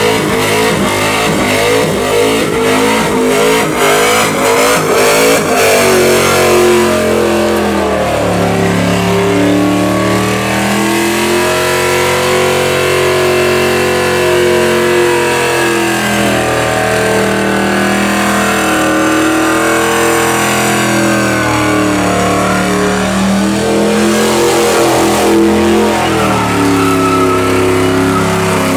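A loud vehicle engine revving, its pitch climbing and falling several times, after a choppy, evenly pulsing run in the first few seconds.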